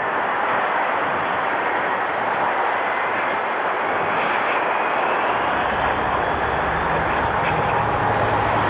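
Jet airliner engines running with a steady roar and a thin whine, a deeper rumble building about halfway through.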